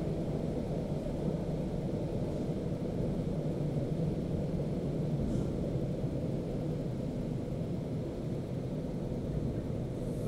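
Suburban electric train running at speed, heard from inside the carriage: a steady low rumble.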